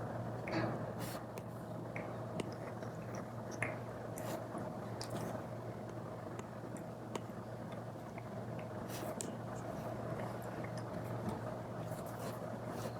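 Apple Pencil tip tapping and stroking on an iPad screen with a paper-like film: scattered sharp ticks over a steady low hiss and hum.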